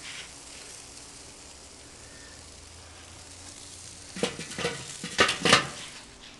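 Chicken and ribs sizzling on a barbecue grill, a steady quiet hiss, with a handful of sharp crackles about four to five and a half seconds in.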